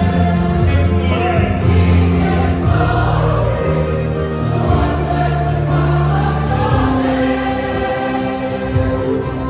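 A church choir singing a hymn in several parts, with held notes over a strong, steady low accompaniment.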